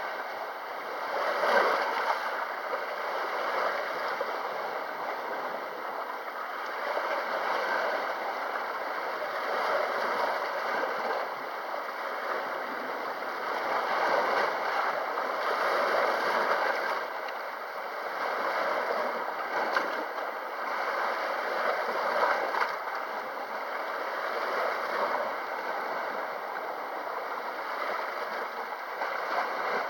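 Sea waves washing and gurgling against the shore, the wash swelling and easing every few seconds.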